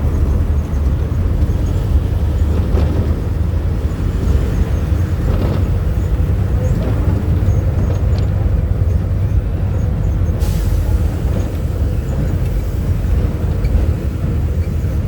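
Cabin sound of a VW 17-230 OD city bus with a Marcopolo Torino body: the diesel engine runs with a steady low drone, with a few light knocks and rattles. A faint hiss starts about ten seconds in.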